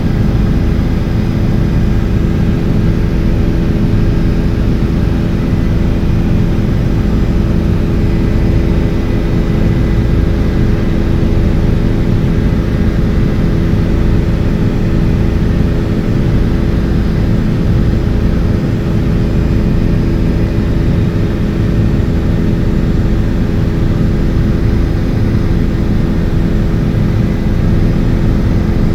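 Helicopter in flight: a loud, steady drone of engine and rotor, with a few steady hum tones that do not change in pitch.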